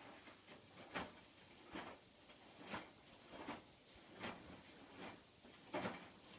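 Hotpoint washing machine early in its wash cycle, the drum turning and the load swishing softly about every three-quarters of a second.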